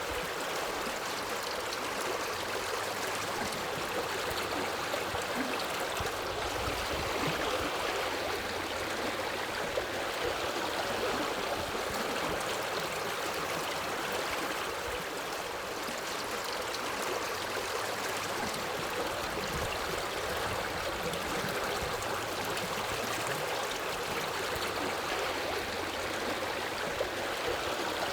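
Forest river flowing over rocks: a steady rushing and babbling of water.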